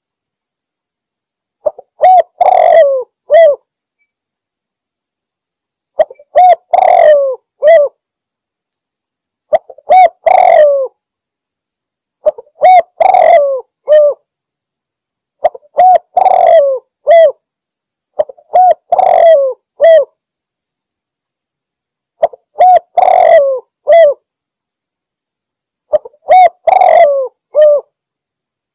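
Spotted dove (tekukur) cooing: a phrase of three to five coos repeated about every three to four seconds, with silence between phrases. It is the call that a dove gives out to challenge rivals.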